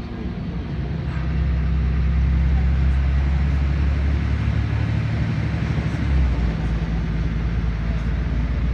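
LiAZ 5292.21 city bus's diesel engine running under load with road noise, getting louder about a second in as the bus gathers speed; the engine note changes about six seconds in.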